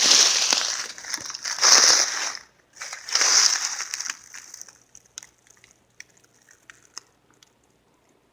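Crunching and rustling of dry brush in loud bursts over the first four seconds, then only a few scattered light clicks.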